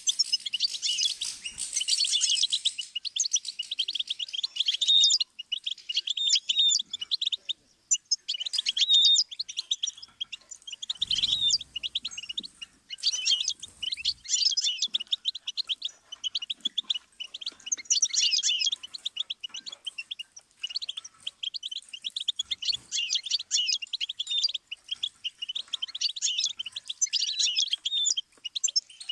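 Goldfinch singing: long runs of fast twittering notes and trills, broken by brief pauses. A short low thud sounds about eleven seconds in.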